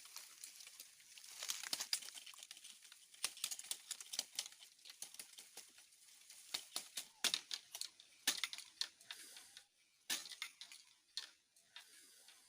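Dry bamboo and leaves rustling, with irregular sharp cracks and snaps as the stems are handled and broken.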